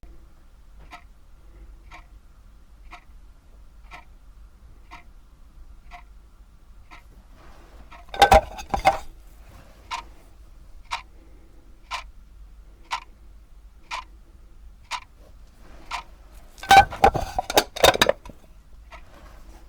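Cheap step-movement quartz clock ticking once a second, first faint and muffled inside a clear plastic case, then noticeably louder after a burst of clattering handling about eight seconds in. A second clatter near the end is followed by fainter ticks again.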